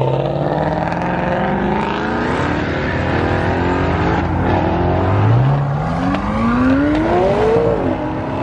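Car engines running as traffic pulls out. About five seconds in, one car accelerates hard: its engine note climbs steadily for a couple of seconds, drops at an upshift and starts climbing again.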